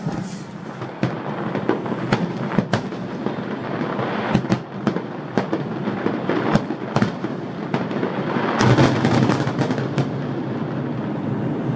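Aerial fireworks display: a steady run of sharp bangs from bursting shells over dense crackling, getting thicker about two thirds of the way through.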